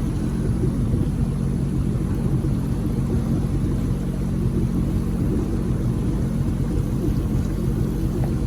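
Jet-drive boat's engine running steadily underway: a constant low drone with several steady tones.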